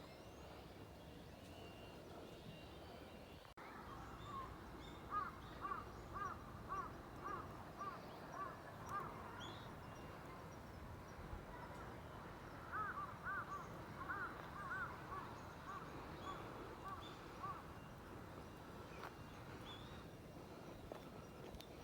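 A bird calling in two quick runs of short, arching notes, about two to three a second, over a faint steady background hush.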